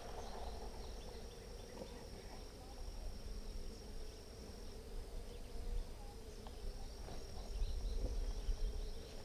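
Honeybees buzzing steadily around an open hive, with a low rumble rising briefly near the end.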